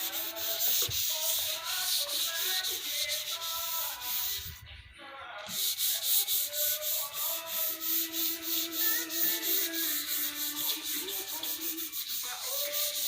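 Sandpaper rubbing on wood in quick, regular back-and-forth strokes, about five a second, with a short pause about five seconds in.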